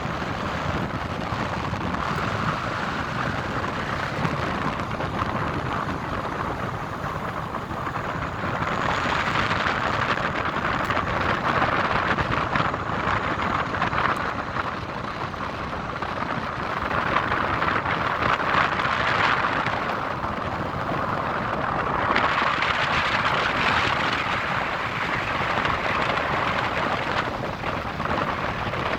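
Steady hiss of wind and traffic on snowy city streets, swelling and fading several times.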